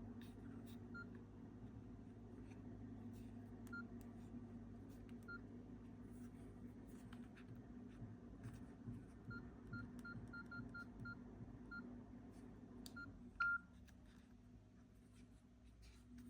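Nokia E61i keypad tones: short, single-pitched beeps as keys are pressed, scattered at first, then a quick run of several in a row, and one louder, longer beep near the end. Faint clicks of handling and a steady low hum lie beneath.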